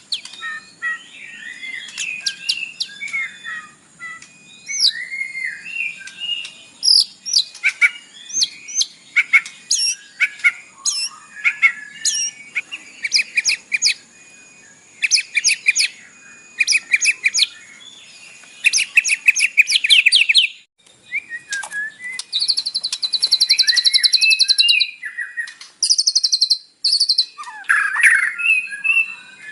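White-rumped shama (murai batu) singing a varied song packed with mimicked phrases (isian): whistled glides, chips, and runs of fast repeated notes that rattle off in quick series.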